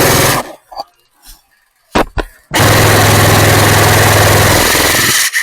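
Airsoft electric gun (AEG) firing on full auto, its motor and gearbox rattling: a short burst ending just after the start, two single sharp shots about two seconds in, then a long burst of nearly three seconds that cuts off sharply.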